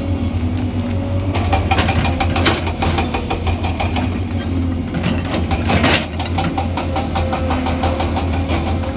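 Excavator's diesel engine running steadily under a rapid metallic clatter, loudest from about one and a half to six seconds in, then fainter.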